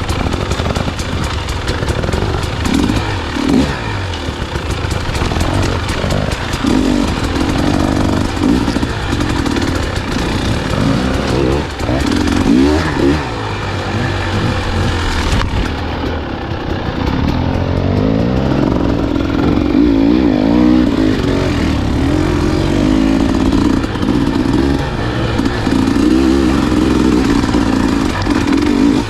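Dirt bike engine, close up, revving up and down repeatedly as it is ridden along a trail. It holds higher, steadier revs from about halfway through.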